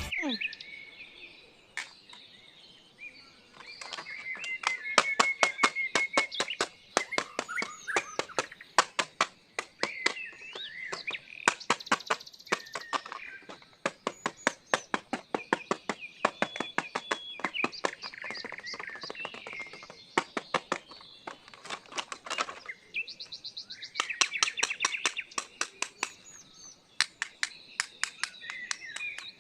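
Birds chirping and twittering, mixed with many rapid, sharp clicks that come in irregular runs.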